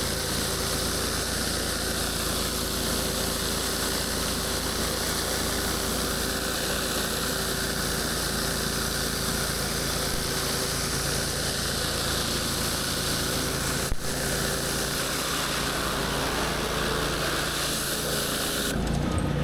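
Gas-engine pressure washer running steadily while it sprays water onto concrete with a constant hiss. A single sharp click comes about 14 seconds in. Near the end the spray cuts off suddenly and the engine tone drops.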